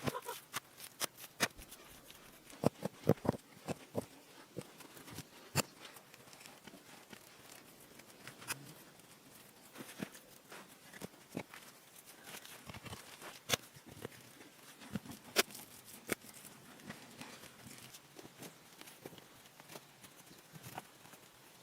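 Irregular sharp knocks and clicks, several close together in the first few seconds and sparser after that, over a low background hiss.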